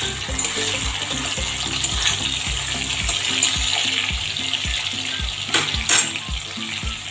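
Prawns sizzling as they fry in hot mustard oil, a steady bubbling hiss, with a couple of sharp clicks near the end. Background music with a steady beat plays under it.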